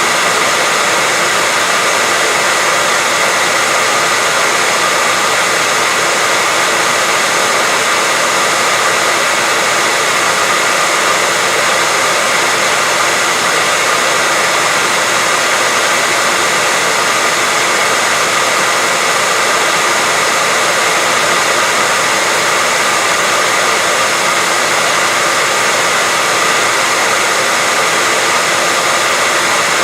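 Steady white noise: an even, unchanging hiss that sits mostly in the middle and upper range, with little bass.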